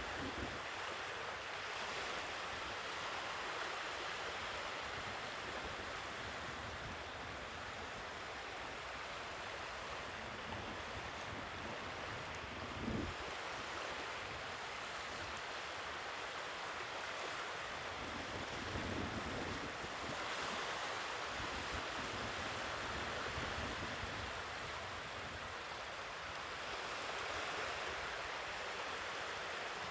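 Sea waves washing onto the shore, a steady surf hiss that swells and eases every several seconds. A brief low thump about halfway through.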